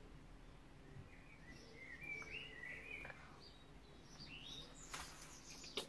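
Faint birdsong: a few short chirping phrases about halfway through, with a couple of sharp clicks near the end.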